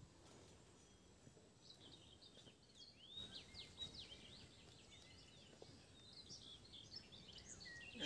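Faint birdsong: many quick chirps and short sweeping notes from small birds, starting about a second and a half in, over a quiet background.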